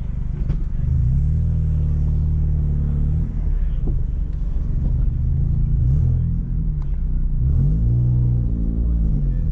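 1992 Toyota Paseo's 1.5-litre four-cylinder engine being driven at low speed, its pitch rising and falling several times with the throttle. A small leak in the exhaust flex pipe is part of its sound.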